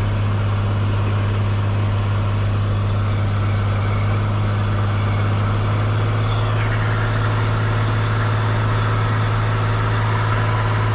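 Cessna 182 Skylane's piston engine and propeller droning steadily in the cockpit, a constant low hum at an even level.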